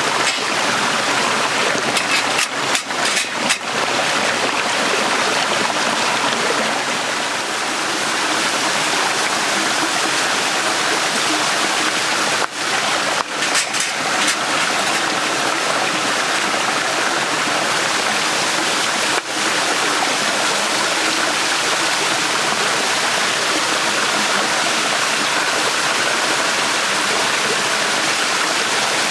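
Small stream flowing: a steady rush of water over stones, with a few brief breaks in the sound.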